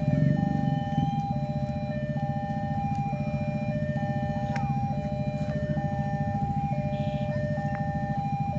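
Railway level-crossing warning alarm sounding two tones in steady alternation, about one change a second, over the loud low rumble of a passing train.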